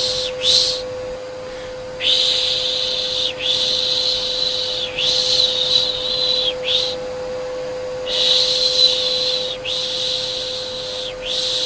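Rhythmic 'shhh' shushing for soothing a baby, repeated in long hissing strokes with short pauses between runs, over the steady hum of a vacuum cleaner.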